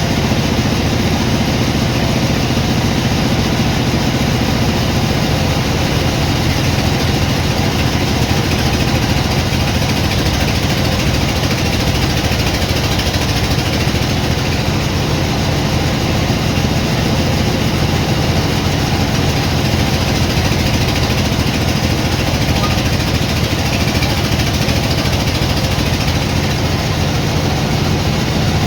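Sawmill machinery running steadily, a loud, unchanging mechanical hum with a low engine-like drone.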